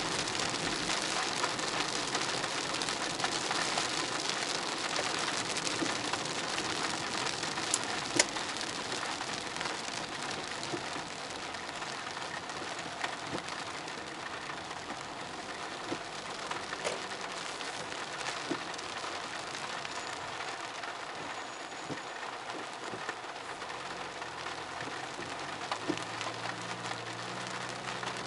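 Steady rain: a dense, even hiss with scattered sharp drop ticks, easing a little about halfway through.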